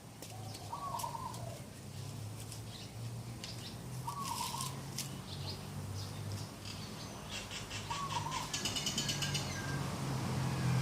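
Morning birdsong: a short call repeats about every three and a half seconds among scattered high chirps, with a quick trill near the end. A steady low hum runs underneath.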